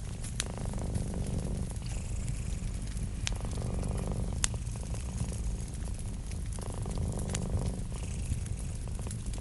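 Cat purring steadily, its purr swelling and easing every few seconds, with a few sharp pops from a crackling wood fire.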